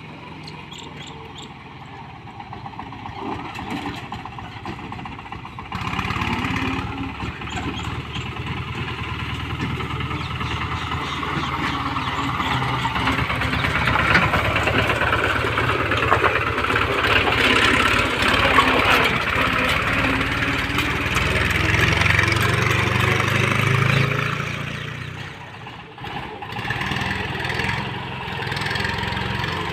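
Captain 280 DX mini tractor's engine running, growing louder about six seconds in and working hardest through the middle, then easing off briefly near the end before picking up again.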